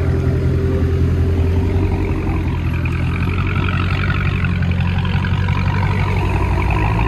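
Dodge Charger SRT Hellcat's supercharged 6.2-litre V8 idling with a steady, low, even note.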